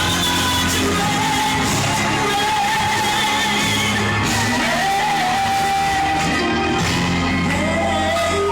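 A woman singing gospel live with band accompaniment, holding long notes that bend and glide over a steady bass line.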